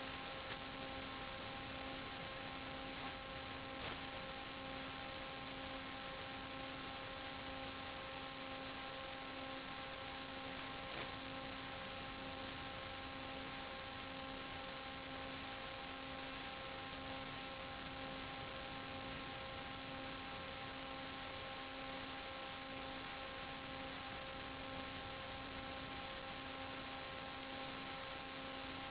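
Steady electronic hum with several evenly spaced overtones over a constant hiss, unchanging throughout.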